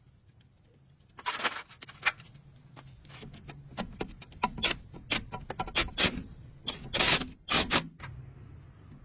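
Irregular metallic clinks, clicks and knocks of tools and metal parts being handled. They start about a second in and are loudest near the end, over a low steady hum.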